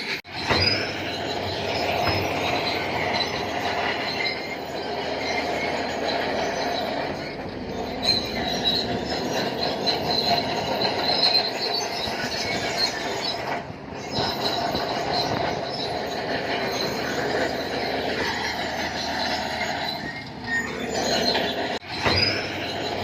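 Crawler bulldozer working, its steel tracks squealing and clanking over the running engine. The sound drops out briefly a few times.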